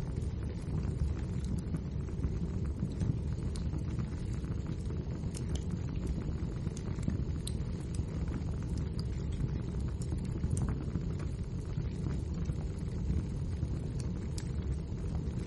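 Wood fire burning in a fireplace: a steady low rumble from the flames, with scattered sharp crackles and pops from the burning logs at irregular moments.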